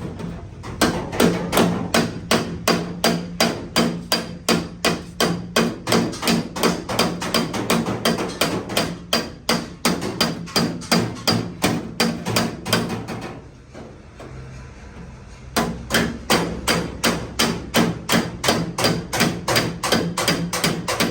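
Repeated hammer blows on the sheet metal of a damaged car door panel, a few strikes a second in an even rhythm, stopping for about two seconds midway and then starting again.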